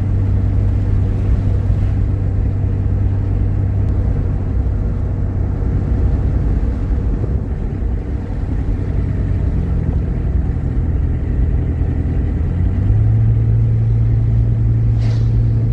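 Steady engine and road hum inside a moving car's cabin. It dips slightly about eight seconds in, and the engine note rises a little about thirteen seconds in.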